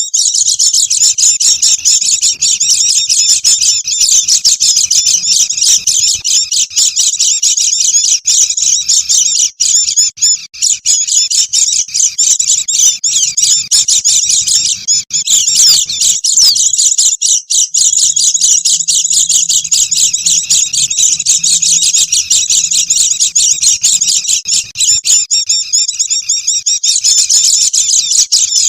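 A flock of white-eyes twittering continuously in dense, rapid, high-pitched chirps: a bird-lure recording for calling in wild white-eyes.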